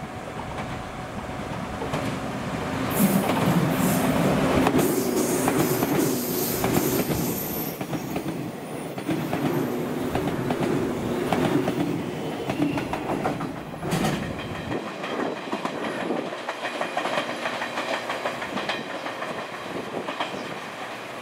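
A seven-car JNR 115 series electric multiple unit passing close by, its wheels clicking over the rail joints in a clickety-clack. The sound swells as the train goes past. About two-thirds of the way through it drops abruptly, and fainter wheel clicks carry on as the train runs away.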